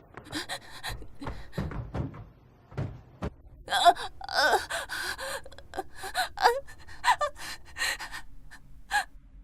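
A person gasping and panting in distress: a string of sharp, ragged breaths, some with a strained voiced cry, coming thick and fast from about three and a half seconds in.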